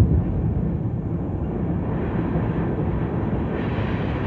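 CSX freight train of covered hopper cars rolling past, a steady low rumble of steel wheels on the rails.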